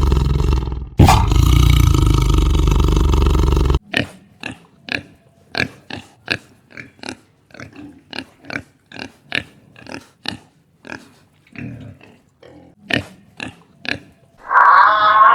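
Animal calls: a loud, harsh continuous call that stops abruptly after about four seconds, followed by a run of short, sharp calls about two a second. Music comes in near the end.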